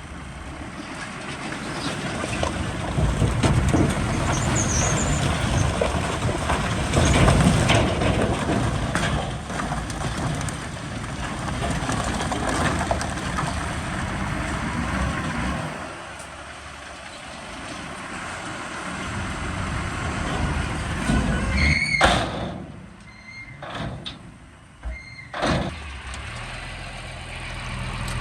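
Heavy diesel earthmoving machinery working, a bulldozer and a dump truck, the engine noise rising and falling. About three-quarters of the way through a short high squeal sounds, then the noise drops off briefly with a couple of knocks before an engine picks up again near the end.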